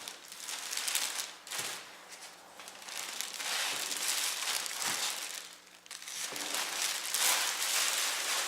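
Packaging crinkling and rustling in several waves as a newly unboxed PC case is handled, likely its plastic wrapping being pulled about.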